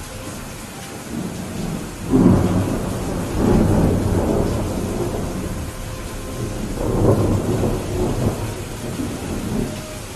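Steady rain falling, with thunder rumbling in two long swells: the first starts about two seconds in and the second comes around seven seconds.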